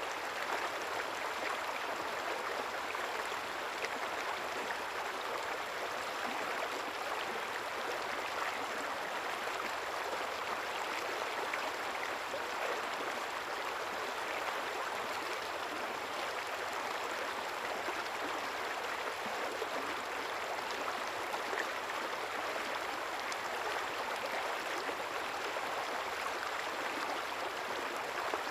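A quiet river flowing, a steady babbling with no breaks.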